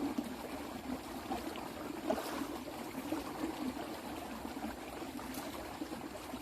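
Water running steadily with a trickling sound, with a few faint ticks and splashes.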